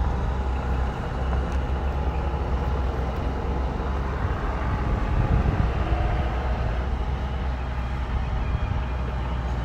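Bulldozer's diesel engine running, a steady deep rumble.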